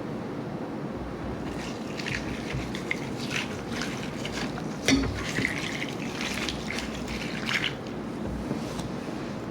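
Wet slush ice crackling and crunching in short, irregular bursts, with one sharp click about five seconds in.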